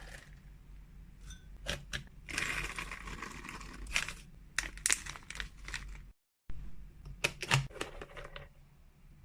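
Freeze-dried cat treats being portioned and packed: plastic packaging crinkling and rustling, with sharp clicks and clatters of the dry, hard pieces. A longer rustle runs from about two and a half to four seconds in, and the sound cuts out completely for a moment a little past the middle.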